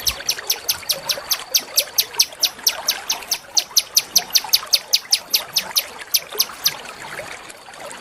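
A small songbird calling a fast, even run of short, sharp high notes, about five a second, that stops about seven seconds in.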